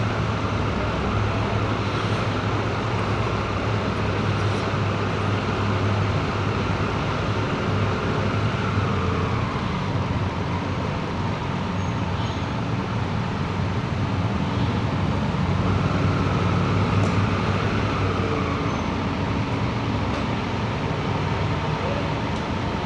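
An engine running steadily with a low drone, its pitch easing up and down slightly a couple of times.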